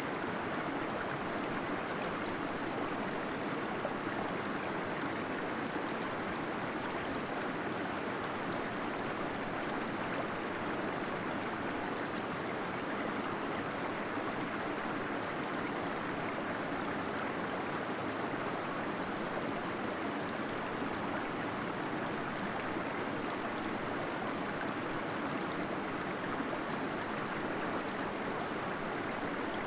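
Small waterfall splashing and gurgling steadily into a pool inside a cave.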